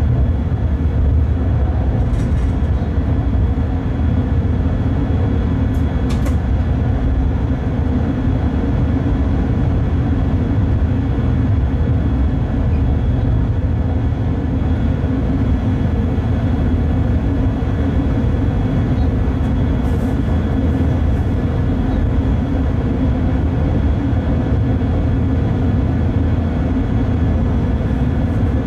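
Bombardier Traxx BR 186 electric locomotive under way, heard from the cab: a steady low rumble of the running gear with a few faint steady whine tones above it. A few faint ticks come through now and then.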